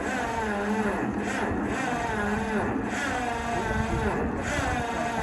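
Electric starter cranking the cold two-cylinder engine of a 1954 John Deere 60 at about −35°, the pitch rising and falling over and over as the engine turns through its compression strokes without catching.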